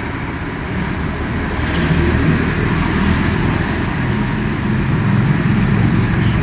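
Steady rumble of road traffic and motor-vehicle engines, growing louder about two seconds in.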